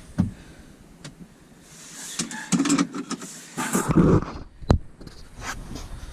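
Handling noises in a car: rustling and clicking as wire and plastic trim are worked, with two short scuffing bursts in the middle and a sharp click a little after them.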